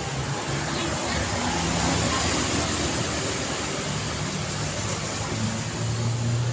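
Steady city road traffic: tyre noise and engine hum from passing cars, growing a little louder about two seconds in.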